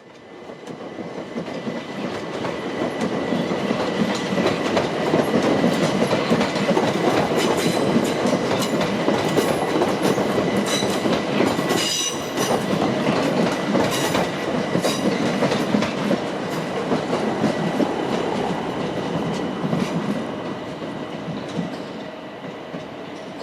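Train moving along the platform, its wheels clicking over rail joints, with a steady high tone running through. The sound builds over the first couple of seconds and fades near the end.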